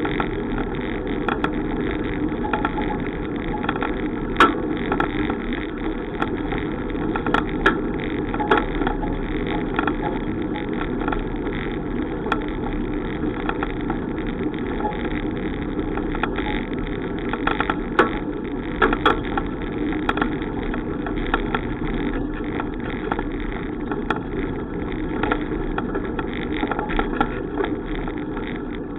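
Steady rolling noise of a bicycle in motion, with scattered sharp clicks and knocks, the most around 18 to 19 seconds in.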